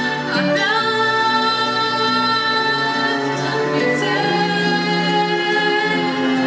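A woman singing long held notes with vibrato over backing music.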